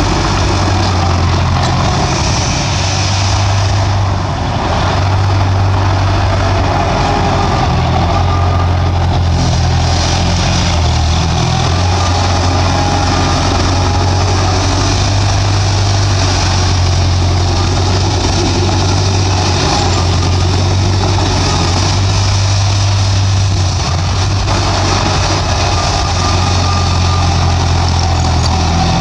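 Bulldozer's diesel engine running steadily, a deep low drone that holds with little change in loudness.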